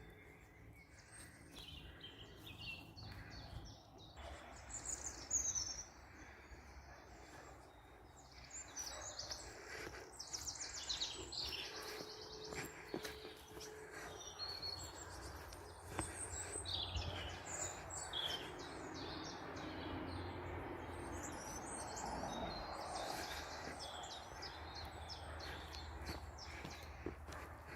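Several songbirds chirping and singing over a faint outdoor background hiss, with a rapid trill about ten seconds in.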